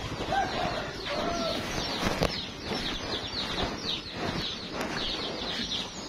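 Birds chirping: many quick, high, down-sliding chirps one after another, with two lower calls in the first second and a half. A couple of sharp knocks about two seconds in.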